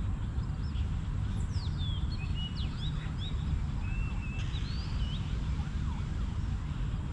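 Birds chirping and whistling in quick, sweeping calls, most of them in the first five seconds, over a steady low rumble.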